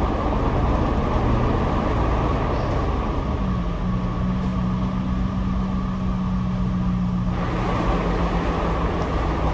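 Double-decker diesel bus heard from the upper deck: engine and road noise throughout. From about three and a half seconds in, the rush thins and a steady low engine hum stands out, then the fuller noise comes back about seven seconds in.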